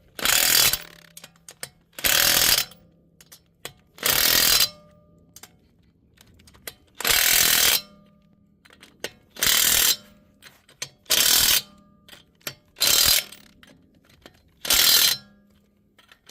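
Impact wrench hammering in eight short bursts, one every two seconds or so, with small clicks between: driving a wheel's lug nuts tight.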